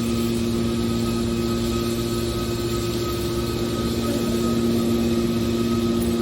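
Scrap metal baler's machinery running with a steady hum.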